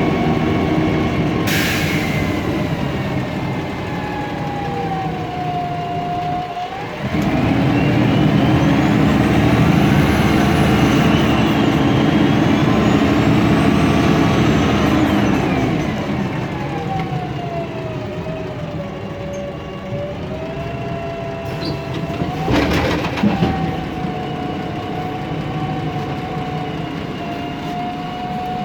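MAN Lion's Classic city bus running with its CNG engine and Voith DIWA automatic gearbox: the drive grows louder about a quarter of the way in, then eases off after the middle, with the gearbox whine gliding down and back up in pitch. A short burst of noise comes early on and another about three quarters through.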